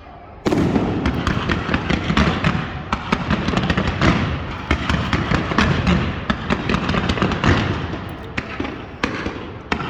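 Fireworks going off: a sudden loud start about half a second in, then a dense, continuous run of sharp cracks and pops over a low rumble, thinning out near the end.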